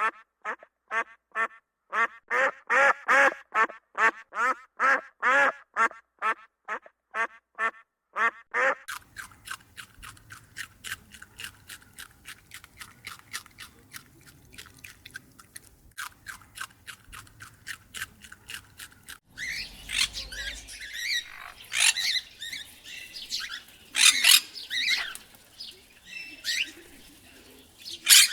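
Animal calls in three runs: first a string of quick, evenly repeated pitched calls, about two a second. Then from about nine seconds in, a faint rapid chattering. In the last third come loud, harsh squawking calls.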